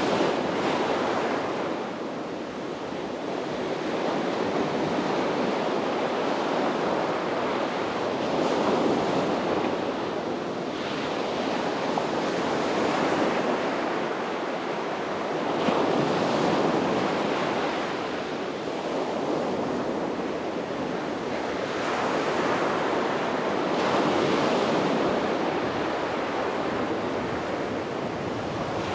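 Sea waves breaking and washing up on a beach, the surf swelling and easing every few seconds, with some wind noise on the microphone.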